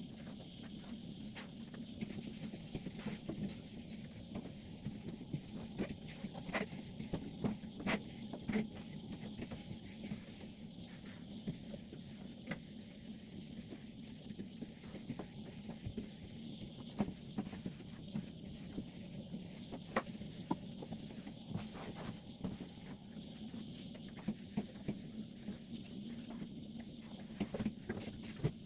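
Scattered light clicks and knocks of things being handled and wiped during cleaning, over a steady low hum.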